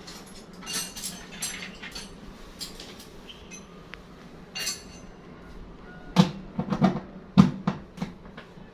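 Knocks, scrapes and clatter from hard parts of a front-loading washing machine being handled and taken apart. Light scraping and clicking comes first, then a run of sharper, hollow knocks starting about two-thirds of the way in.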